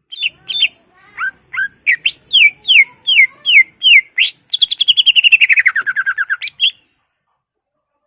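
Greater green leafbird (cucak ijo) singing. A string of sharp, downslurred whistled notes, about two or three a second, runs into a fast trill that drops steadily in pitch.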